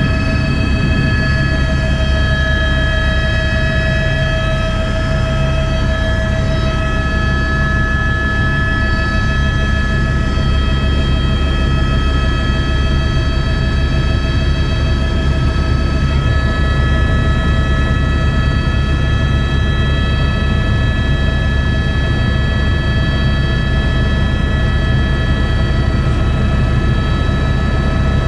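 Helicopter running steadily: a constant low drone from the engine and rotor, with several steady high-pitched turbine whine tones over it.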